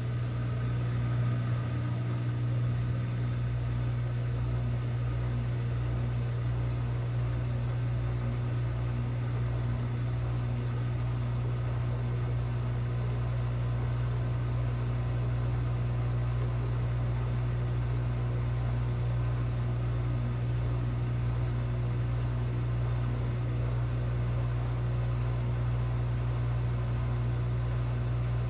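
Washing machine running with a steady low hum that does not change, from a washer that will not go into its spin.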